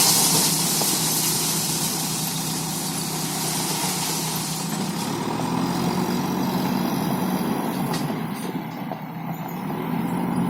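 Heavy diesel engine running steadily, with a loud hiss over it for the first four seconds or so.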